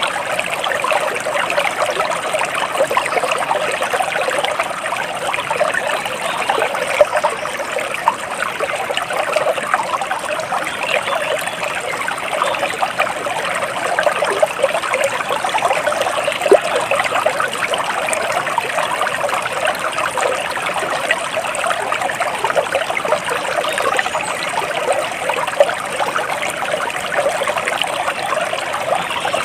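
Flowing water trickling steadily and without pauses.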